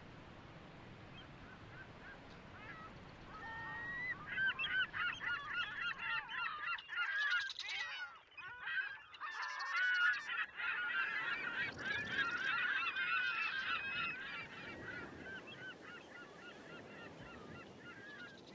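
A flock of birds calling: many short, overlapping cries that start about four seconds in, crowd together through the middle and thin out toward the end.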